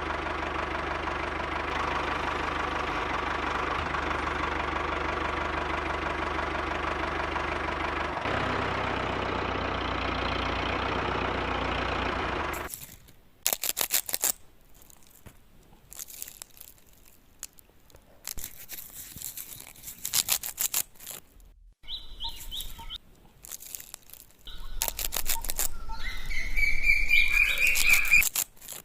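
Small electric motor of a homemade miniature chaff cutter running steadily, its tone shifting slightly about eight seconds in, then cutting off about twelve seconds in. Scattered clicks and taps follow, with short high bird chirps near the end.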